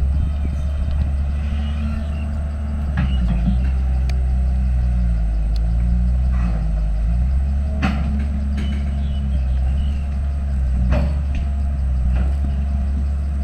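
Diesel engine of a heavy earthmoving machine running steadily, its pitch dipping and rising for a few seconds midway as it works under load, with sharp metal clanks about five times.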